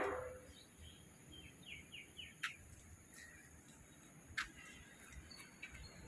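Faint birds chirping, with a quick run of three or four short falling notes about a second and a half in, over a steady low rumble. A louder pitched sound fades out at the very start, and two sharp clicks come about two and a half seconds in and again near four and a half.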